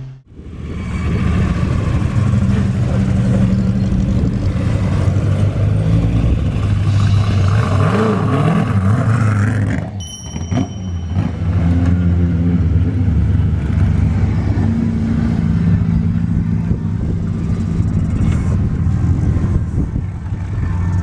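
Hayabusa four-cylinder motorcycle engine in a KP61 Starlet running at steady, moderate revs rather than screaming near the limiter. The sound drops out briefly about ten seconds in, then carries on much the same.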